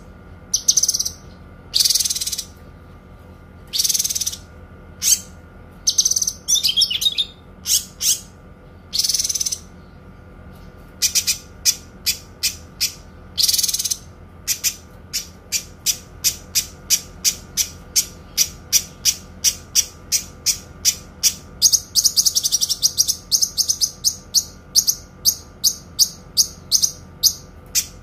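Kinoi songbird singing loud, clear, high-pitched notes. First come a few longer phrases, then from about eleven seconds in a long, fast run of short repeated notes (the 'long shot' style), which thickens into a continuous trill a little past twenty seconds. A faint steady hum runs underneath.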